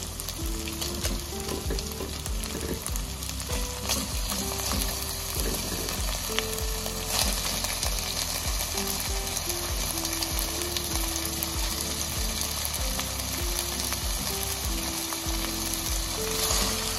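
Chicken pieces sizzling steadily as they fry in hot oil with onion and ginger-garlic paste, with background music (a melody and a repeating bass beat) playing over it.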